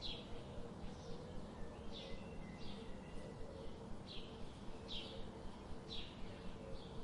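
Birds chirping: short, quick downward-sweeping chirps about once a second over a steady background hiss and faint hum.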